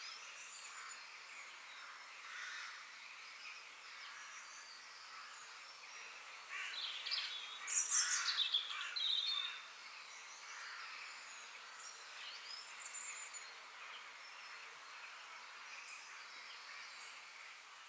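Forest ambience of several songbirds chirping and calling, with one louder burst of song made of quick rising and falling notes about midway, lasting around three seconds.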